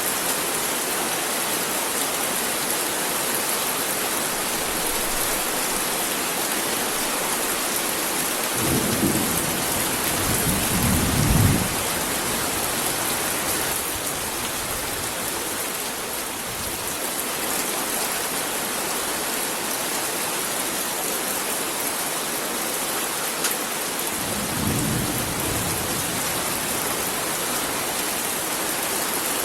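Heavy rain falling steadily, with two low rolls of thunder: a longer, louder one building about a third of the way in, and a shorter one later on.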